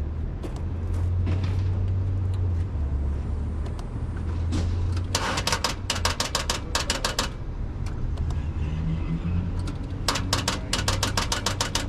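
1996 Chevrolet Impala SS's starter solenoid chattering in rapid clicks, about seven a second, in two runs of about two seconds each, without cranking the engine, even on a jump pack: a sign the mechanic takes for a battery with a dead cell or two. A steady low hum runs underneath.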